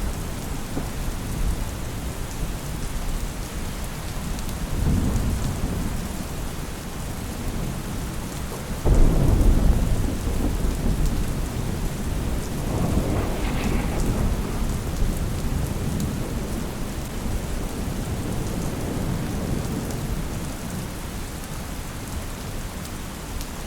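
Steady rain with rolling thunder. One low roll swells about five seconds in, a sudden loud peal comes about nine seconds in, and another rumble follows a few seconds later.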